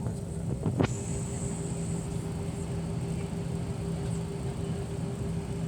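Steady cabin hum of an airliner waiting on the ground before takeoff: a low drone with a steady mid-pitched tone and a faint high whine. There is a single sharp knock a little under a second in.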